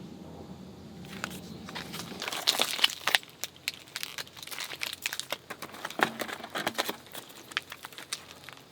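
Plastic packaging crinkling and crackling as it is handled, in irregular bursts that are loudest a couple of seconds in and again near the end. A low steady hum sounds under it for the first two seconds and then stops.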